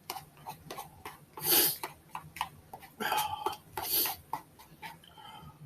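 A person eating spicy ramen noodles: a run of small wet mouth clicks and chewing, with three louder sucking sounds about one and a half, three and four seconds in.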